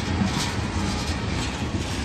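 Train cars rolling past on the rails: a steady low rumble of wheels on track with faint clatter.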